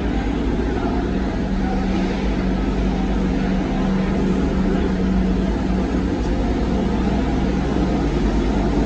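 Car engine running steadily, a low, even drone.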